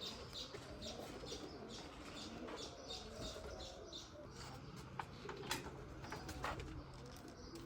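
Birds chirping in quick, even repeats, then a few sharp clicks, over a low steady hum.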